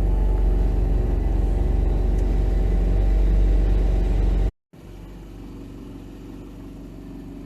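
Off-road vehicle engine running at a steady drone. About four and a half seconds in, the sound cuts off for an instant and comes back much quieter.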